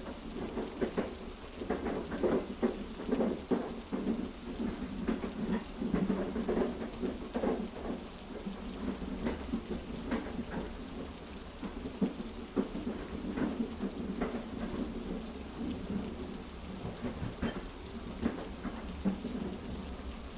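Heavy rain: a dense, irregular patter of drops over a steady low rumble.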